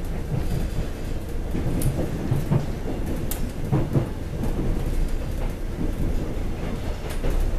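Inside a moving passenger coach of the Jeongseon Arirang Train (A-Train): a steady low rumble of the car running on the track, with rattling and a few sharp clacks scattered through it.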